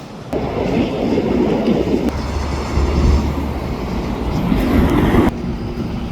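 Rumbling of a moving train, a loud noisy rumble with a steady low hum that starts abruptly and drops away sharply about five seconds in.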